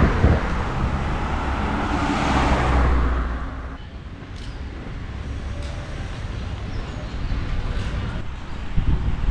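A motor vehicle passing close by on a road: engine and tyre noise loud for the first three seconds or so, then fading away into quieter street background.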